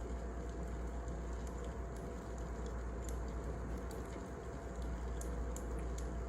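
Wood fire crackling: a steady low rumble and hiss of burning logs with scattered small, irregular pops.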